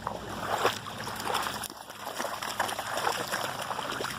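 Water splashing and sloshing irregularly in shallow floodwater, in a rapid, uneven run of small splashes with a brief lull partway through.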